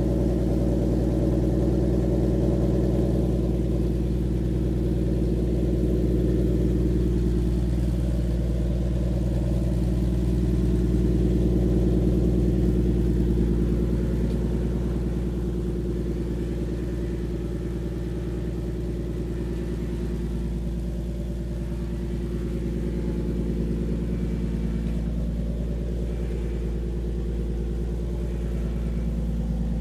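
Nissan 370Z's 3.7-litre V6 idling after a cold start through a Motordyne Shockwave exhaust: a steady, deep exhaust rumble that settles slightly quieter about halfway through.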